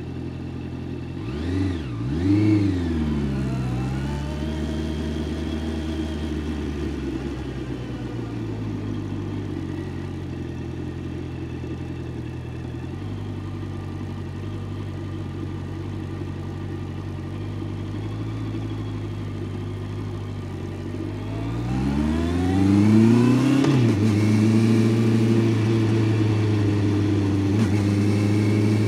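Honda CBR650F's inline-four engine under way. It briefly revs up and down about two seconds in, then runs at a steady pitch. Near the end it revs up, drops sharply, and runs on steadily and louder.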